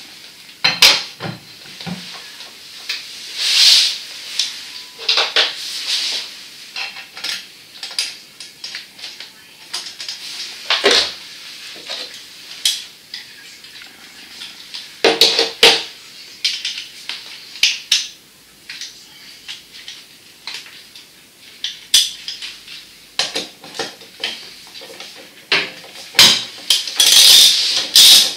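Irregular clinks, clatters and knocks of hard objects being handled, spaced unevenly, with a quicker run of them near the end.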